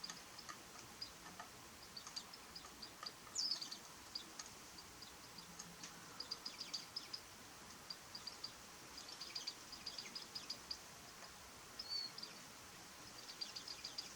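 Japanese white-eyes calling: many short, high chips, scattered and at times in quick runs, with one louder slurred call about three seconds in and a short whistled note near the end, over a faint steady hiss.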